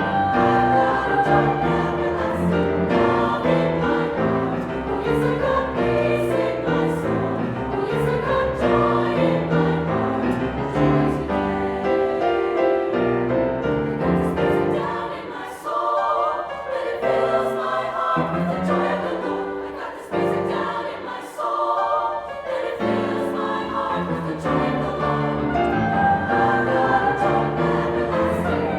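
Choir singing in chords, the voices moving between held notes, with two short breaths or pauses past the middle.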